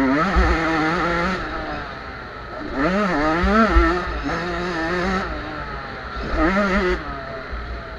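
Small two-stroke junior motocross bikes revving hard, their engine pitch climbing and dropping again and again as riders work the throttle and shift, with louder surges about three times as bikes come close.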